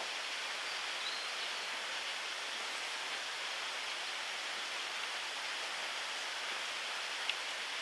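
Steady hiss of outdoor woodland ambience, with a faint high chirp about a second in and a single sharp tick near the end.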